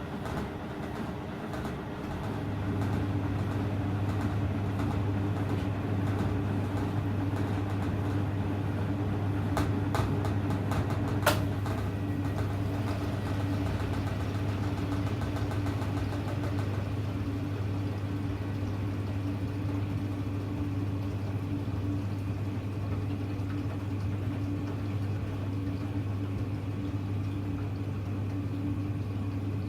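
Hoover Electra front-loading washing machine running with a steady motor hum, which falters briefly at the start and then settles. A few sharp clicks come about ten seconds in.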